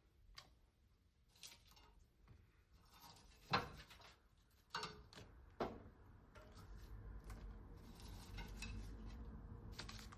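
Kitchen handling sounds: a few sharp knocks and clinks of dishes or utensils, the loudest about three and a half seconds in. These are followed by a faint steady low rumble with scattered small clicks.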